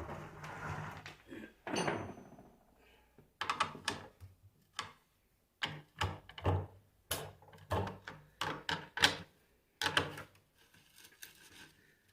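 Irregular clicks, knocks and short scrapes of metal parts being handled as the cover is taken off an alternator's rear end.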